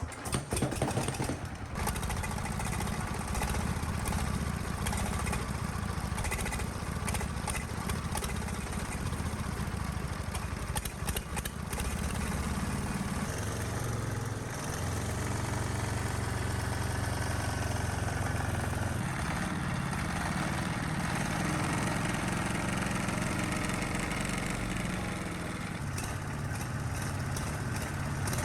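Restored D15 single-cylinder diesel engine running steadily, with a continuous low drone.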